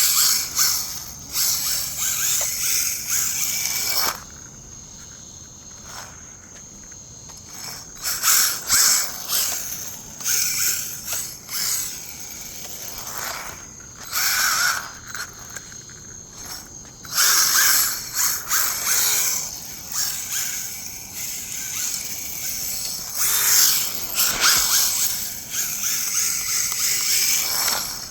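Electric RC rally car running in repeated bursts of a few seconds: the motor whines and the hard drifting wheels spin and scrub on concrete, really loud, with quieter gaps between runs.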